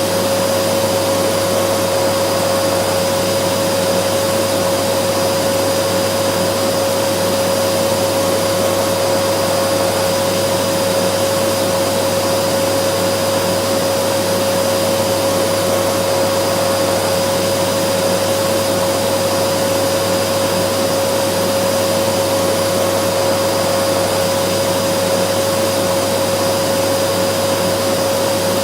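Vacuum cleaner running steadily: a constant rushing noise with a steady whine held at one pitch, unchanging throughout.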